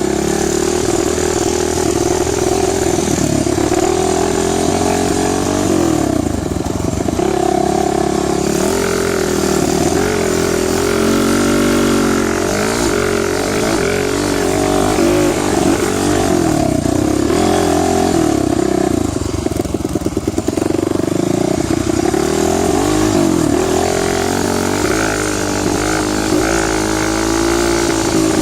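Dirt bike engine running, its pitch rising and falling again and again as the throttle is opened and closed.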